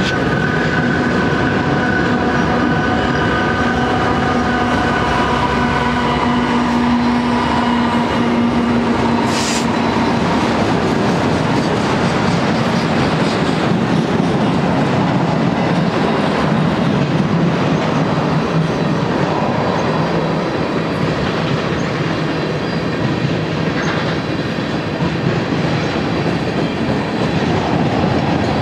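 Mid-train diesel locomotives passing with a steady engine drone whose pitched tones die away over the first several seconds. After that come a long freight train's cars rolling by, a continuous rumble of steel wheels on rail with clatter from the trucks and a brief squeal about ten seconds in.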